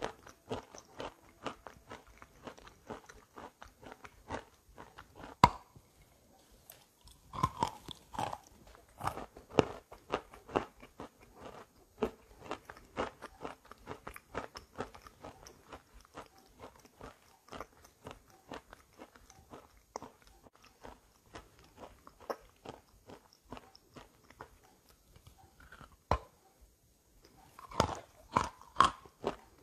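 Wet chalk with gray clay paste being bitten and chewed, a dense run of crackly, crunchy chewing. Louder bites come about five seconds in, around eight seconds and again near the end.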